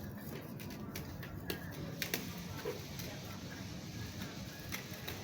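Steady low background rumble of an outdoor waterfront, with faint distant voices and a few sharp clicks about one and a half, two and nearly five seconds in.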